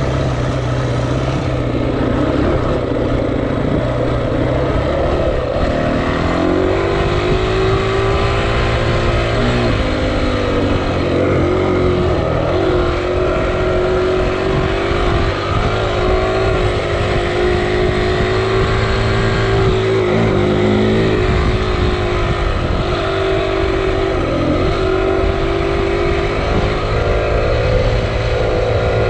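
Dirt bike engine running hard under throttle. Its pitch climbs about six seconds in, then holds, dropping briefly several times as the throttle eases or the gears change.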